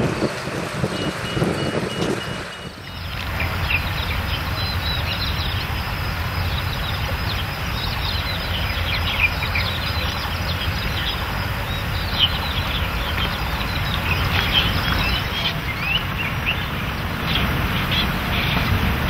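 Many small birds chirping rapidly and overlapping, a flock calling together, over a steady low rumble. Before that, about three seconds in, the sound changes abruptly from a short run of evenly repeated high beeps.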